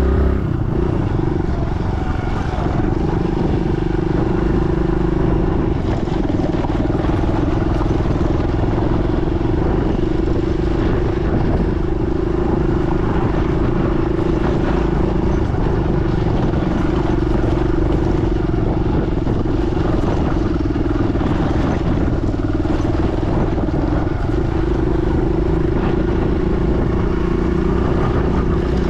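Motorcycle engine running at a steady pitch while being ridden along a dirt trail, the note dipping briefly a couple of times midway.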